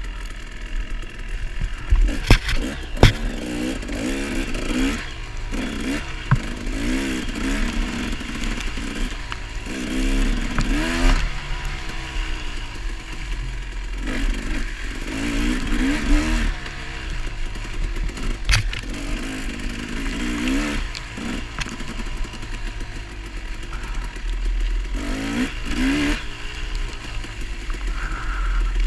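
Off-road motorcycle engine revving in repeated bursts as it climbs and picks its way over rough trail, with a few sharp knocks and clatter from the bike hitting obstacles.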